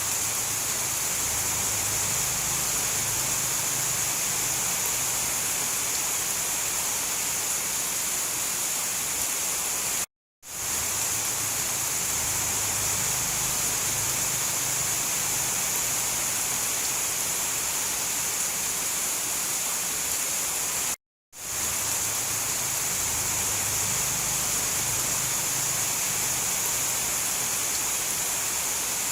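Steady rain hiss as a looped recording. It cuts out briefly twice, about ten and twenty-one seconds in, and fades straight back up each time.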